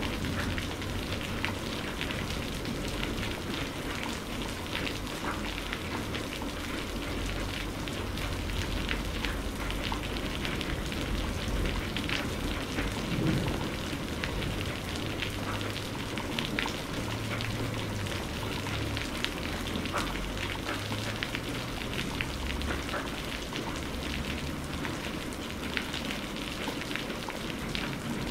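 Steady rain falling, with many small drop ticks and a faint low rumble underneath.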